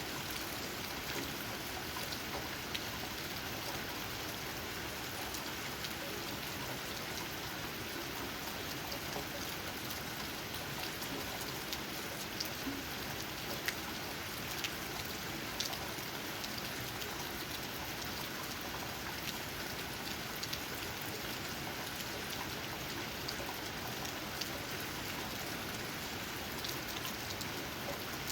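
Steady rain falling, with raindrops pattering on leaves and scattered louder individual drop ticks.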